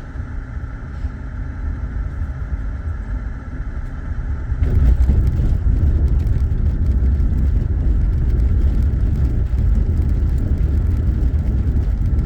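Road and engine noise inside a moving car's cabin: a steady low rumble that gets louder and rougher about five seconds in.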